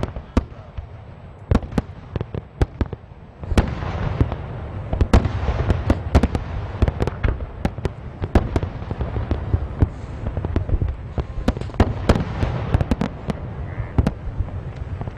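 Rain falling, heard as a dense run of sharp, irregular drop strikes over a steady wash, growing heavier about three and a half seconds in.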